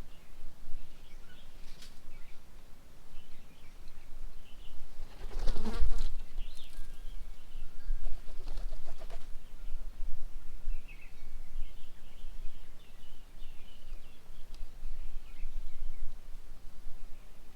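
Small birds chirping and twittering at a bird table, with two louder flurries of flapping wings about a third of the way in and about halfway through as birds come and go.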